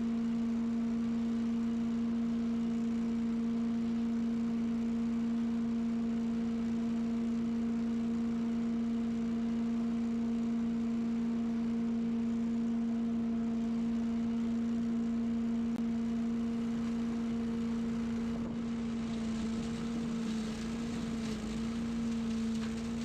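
Small gas lawn-equipment engine running steadily at a constant pitch. About eighteen seconds in, a hiss joins it and the pitch wavers slightly.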